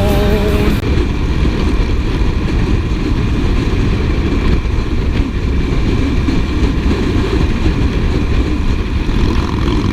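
Harley-Davidson motorcycle engine running steadily during a ride, a continuous low rumble.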